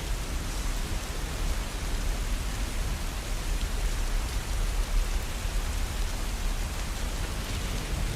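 Steady rain falling: an even, unbroken hiss with a deep low rumble underneath.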